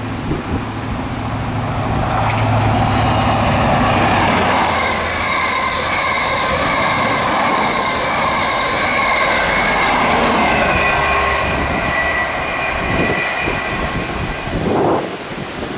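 A CrossCountry InterCity 125 (HST) passing close by. The leading power car's diesel engine gives a steady low tone at first, then comes the loud rush of the coaches' wheels on the rails, with high ringing tones over it. The sound eases near the end as the train moves away.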